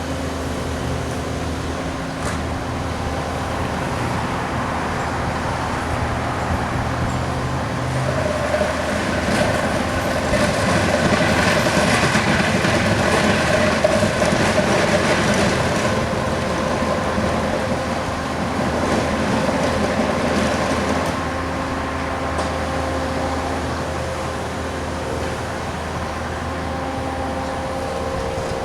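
Bobcat skid steer loaders working, their diesel engines running steadily, with a rougher, noisier stretch that grows louder for several seconds around the middle.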